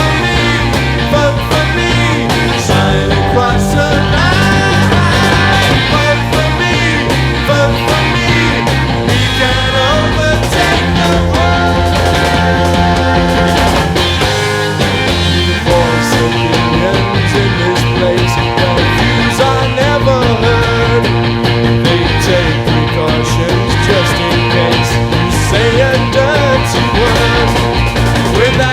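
Late-1960s British psychedelic rock recording playing steadily, a full band with electric guitar, bass and drums.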